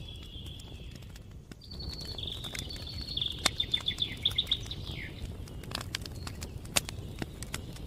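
Campfire crackling, with sharp pops scattered through, the loudest near the middle and about two-thirds of the way in, over a steady low rumble. A songbird sings one phrase of high repeated notes that speed up and end on a falling note.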